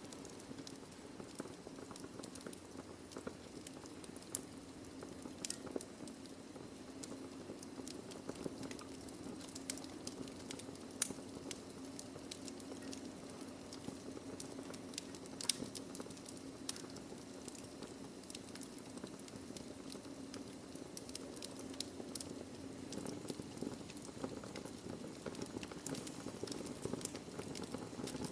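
Wood fire in a fireplace crackling, with frequent small pops over a steady low hiss of burning logs and one sharper pop about eleven seconds in.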